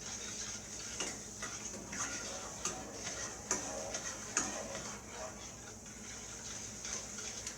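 A small spoon stirring sugar water in a saucepan to dissolve the sugar. It clinks against the pot in light ticks at irregular intervals, roughly one a second, over a steady high hiss.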